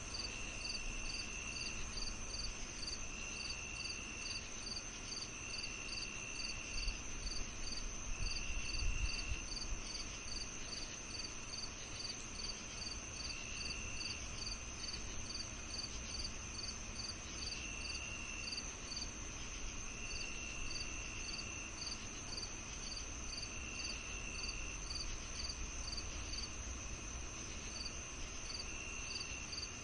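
Evening insect chorus of crickets: one chirps in an even pulse about three times a second over a continuous high trill, while another trills in phrases of a second or two every few seconds. A low rumble swells briefly about eight seconds in.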